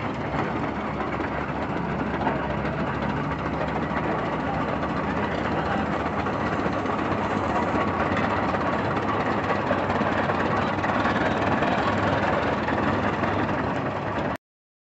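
Engine running steadily, then the sound cuts off abruptly near the end.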